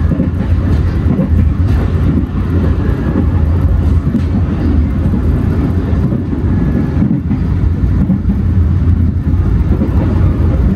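Passenger train running at speed, heard from inside a dining car: a steady low rumble of the wheels on the rails.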